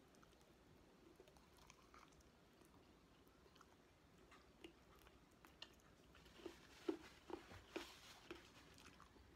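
Faint, close-up chewing and mouth smacks of someone eating chicken adobo with their hands, sparse at first and then a run of louder smacks about two-thirds of the way in. A paper napkin rustles against the mouth near the end.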